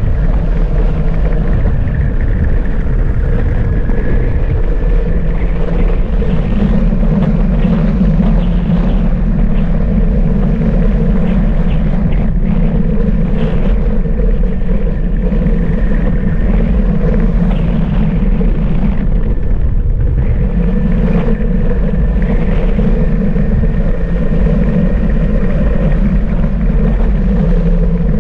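Gogoro 2 electric scooter being ridden: a steady, loud rumble of wind and road noise on the microphone, with a faint high motor whine running under it.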